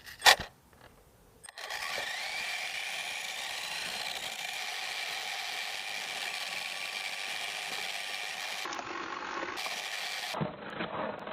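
A small electric RC car's motor and gears whining steadily, with drivetrain rattle, heard from a camera mounted on the car. The sound starts suddenly about a second and a half in, after a single sharp click.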